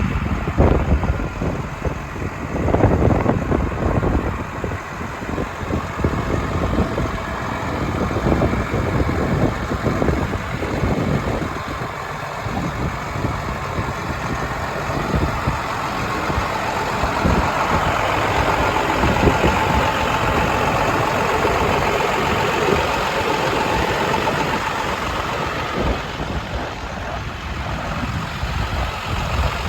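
International DT466 inline-six diesel engine idling steadily, with a slightly louder, brighter stretch a little past halfway.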